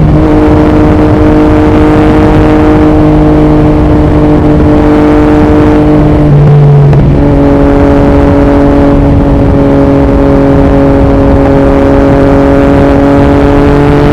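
2021 Yamaha MT-09's 890 cc inline-three through an Akrapovic Racing exhaust, running loud at steady highway revs. There is a brief break a little past halfway, after which the engine runs at slightly lower revs. Wind rushes on the microphone throughout.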